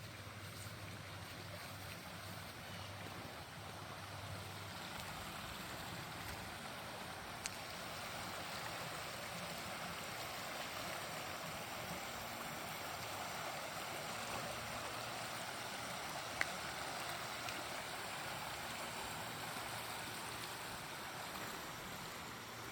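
Steady rush of the White River's flowing water, an even hiss that swells slightly midway, with a faint low hum in the first few seconds.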